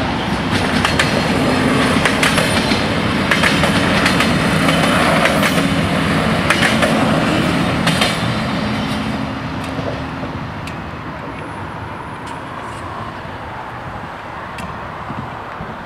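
Siemens Desiro diesel multiple unit running through a level crossing, its wheels clicking over the rail joints. The train noise fades away after about nine seconds.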